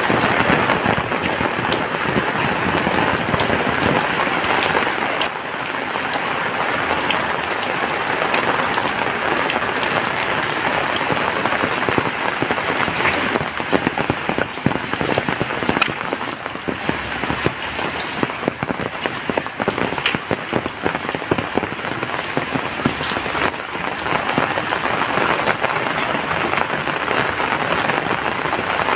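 Heavy rain falling steadily, a dense hiss dotted with the ticks of individual drops striking a surface.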